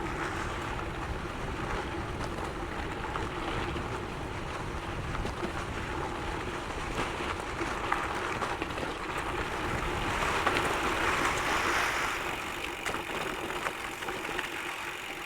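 Gravel bike tyres rolling over loose sand and gravel, a steady rushing noise with small crunches and wind on the microphone, swelling a little about ten seconds in.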